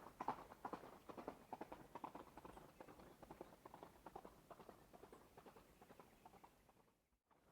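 Horse hooves clip-clopping at a run, a quick string of strikes that fades steadily away and stops shortly before the end.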